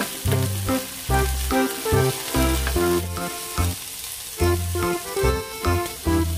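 Mixed vegetables, garlic and onion sizzling in butter and oil in a nonstick pan, stirred with a silicone spatula. Background music with a steady, repeating bass line plays over it.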